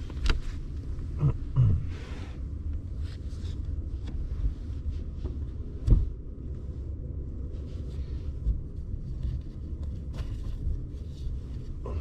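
A few knocks and clatters as cooking gear and food are handled and set down, the sharpest about six seconds in, over a steady low rumble.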